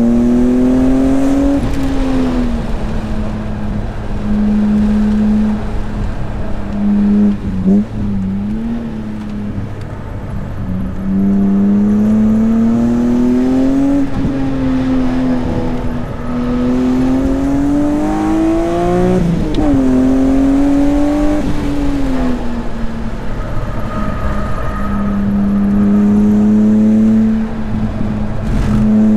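BMW S54 3.2-litre straight-six engine on track, its pitch climbing on several pulls and falling back as the driver lifts or shifts, with brief quick spikes of revs in between.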